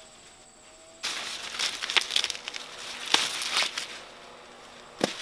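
Dry corn leaves and husks rustling and crackling as they are handled. The sound starts suddenly about a second in, with a few sharp cracks among the rustle, fades out, and ends with a single knock near the end.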